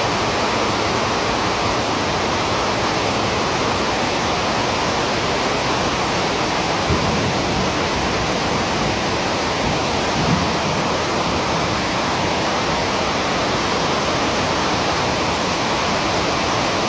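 Heavy rain falling, a loud, steady hiss, with two faint knocks about seven and ten seconds in.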